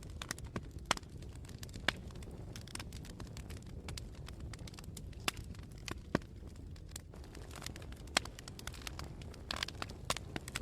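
Wood campfire burning, with irregular sharp crackles and pops, some much louder than others, and a brief hiss about nine and a half seconds in. A steady low rumble of wind runs underneath.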